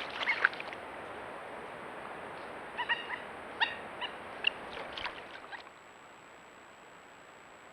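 A series of short, pitched animal calls, a couple right at the start and about a dozen more scattered between roughly three and five and a half seconds in, over steady trail-camera hiss.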